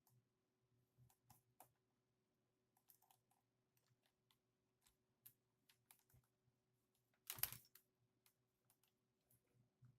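Faint, irregular light taps and clicks, with one louder scuffing thump a little past seven seconds in.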